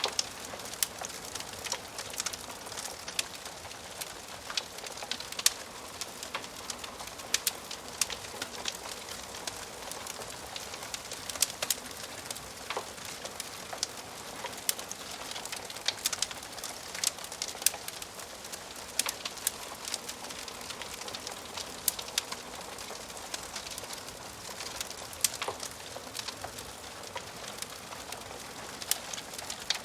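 Wood fire crackling in a fireplace: a steady soft hiss with frequent, irregular sharp pops and snaps from the burning logs.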